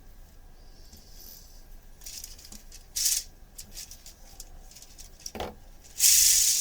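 Light clicks and rattles from handling small 3D-printed plastic parts, then about six seconds in an ungreased ball bearing spun by hand gives a sudden loud, dry rattling hiss. The bearing is noisy because it has not been greased yet.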